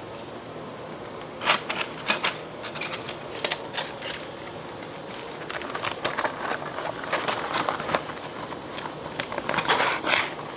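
An order being packed by hand: irregular light clicks and knocks of 3D-printed cookie cutters and packaging being handled, with rustling of the packing material. The rustling thickens about six seconds in and again near the end.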